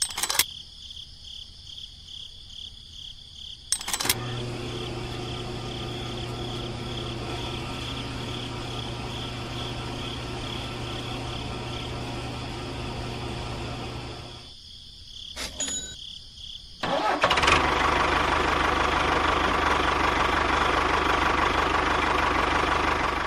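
Engine running: it comes on with a click about four seconds in and runs steadily with a low hum, dies away about fourteen seconds in, then starts again with a click and runs louder through the rest.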